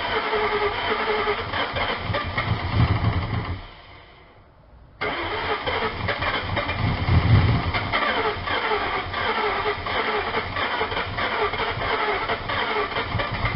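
2000 Ford Mustang GT's 4.6-litre V8 running on starting fluid. It dies out about three and a half seconds in, fires up again a second or so later and keeps running, the revs swelling twice.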